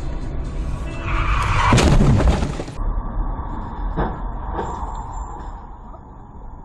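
Car collision recorded from inside a vehicle: a loud crash with crunching and breaking noise about two seconds in, over steady road rumble, followed by a single knock.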